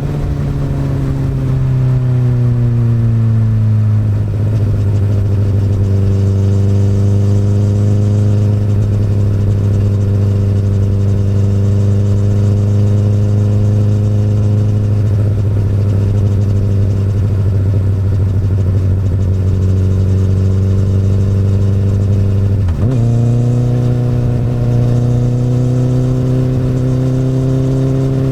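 2008 Honda CBR1000RR's inline-four engine through an Akrapovic exhaust, heard under way: the revs fall over the first few seconds, hold steady for a long stretch, then jump up sharply at a downshift about 23 seconds in and hold at the higher pitch.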